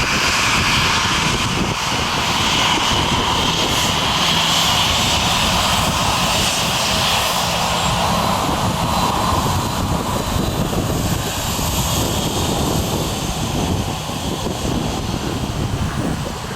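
Airliner engines running loud and steady, easing off slightly over the last few seconds.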